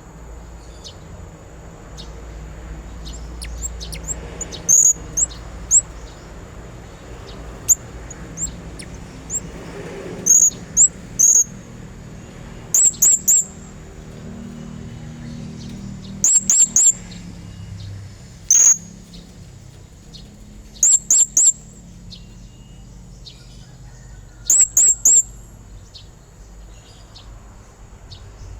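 Blue-crowned hanging parrot (serindit) calling: short, very high-pitched chirps, singly or in quick runs of two or three, every few seconds. The calls are used as a lure to draw other serindits.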